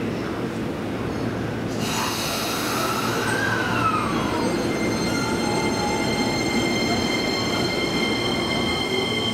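E231 series 900 subseries electric commuter train moving past a station platform, with steady rumbling running noise from its wheels on the rails. A sudden high hiss starts about two seconds in, a whine rises and falls soon after, and several steady high whining tones hold from about halfway on.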